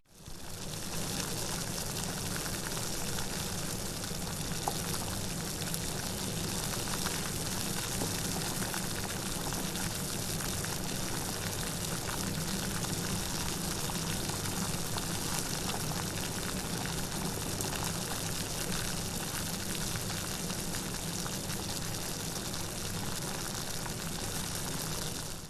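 Steady heavy rain, an even hiss with no distinct drops standing out, fading in just at the start and dipping out again at the very end.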